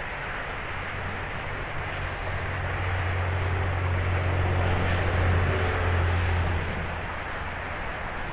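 Passing motor vehicle over steady distant traffic noise: a low engine drone swells over a few seconds, peaks past the middle and fades again.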